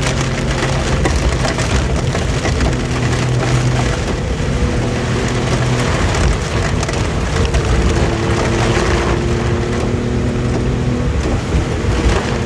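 Suzuki SJ30 Jimny's three-cylinder two-stroke engine running on the move, its note stepping to new pitches several times, under heavy rain beating on the vehicle.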